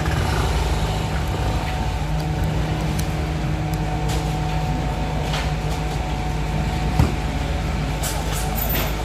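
Diesel garbage truck on an Isuzu FVR chassis running steadily at a collection stop, a low even rumble with steady machine tones over it. One sharp knock comes about seven seconds in.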